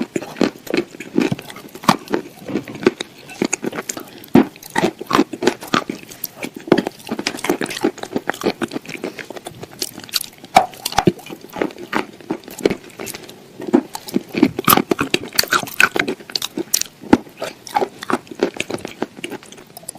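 A person chewing and crunching crunchy food close to the microphone, with many irregular sharp crunches, several a second.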